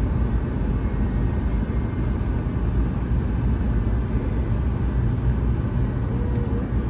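Steady low rumble inside the cabin of a Boeing 757-200 with its engines running on the ground before takeoff.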